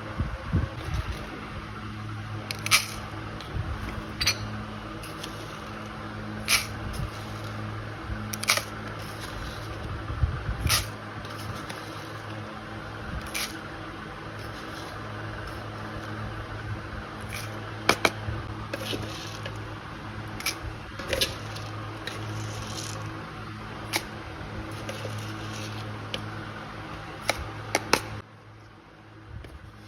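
Irregular sharp clicks and taps of food being prepared by hand, over a steady low hum.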